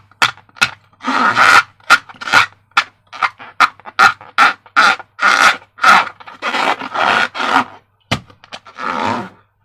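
Balloon being inflated in quick, rhythmic puffs of air, about two or three a second, some of them longer.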